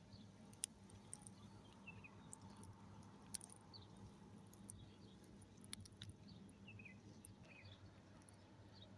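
Small birds chirping faintly at a distance, short quick notes that drop in pitch, repeated every second or so, with a few sharp ticks among them.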